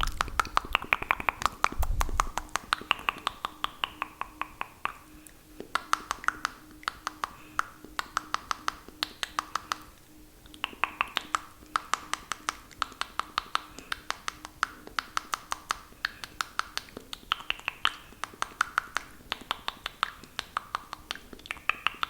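Close-miked wet mouth sounds for spit painting: rapid runs of tongue and lip clicks, several a second, broken by short pauses. A low thump about two seconds in.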